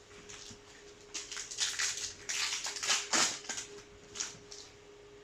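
Crinkling and tearing of a foil Yu-Gi-Oh! booster-pack wrapper as it is opened and the cards handled, a run of crackly rustles loudest about three seconds in. A faint steady electrical hum lies underneath.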